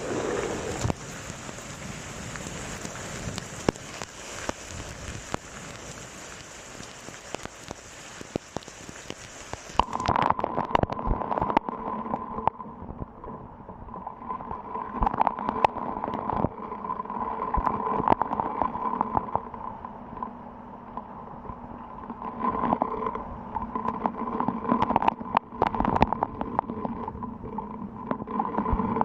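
Rain falling: a steady hiss of rainfall that changes abruptly about ten seconds in to a duller sound of many sharp drops ticking over a steady hum.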